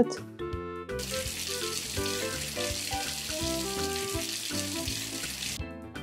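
Water running steadily into a bath as hot water is mixed in, a hiss that starts about a second in and stops near the end, over light background music.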